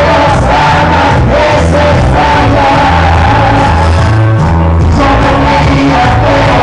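Live cuarteto band music played loud, with a steady bass beat and many voices singing the melody together.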